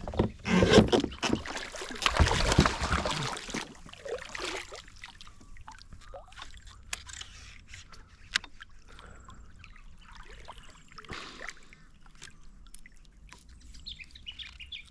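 Handling noise in a fishing kayak, with loud rustling and water noise for the first four seconds or so. It then settles to scattered light knocks and clicks, with birds chirping.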